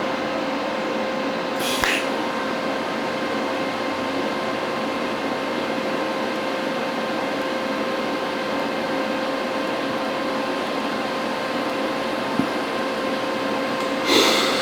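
TIG welding arc on stainless steel: a steady electric buzz with a constant hum, held through a short weld run. There is a brief louder crackle about two seconds in and again near the end.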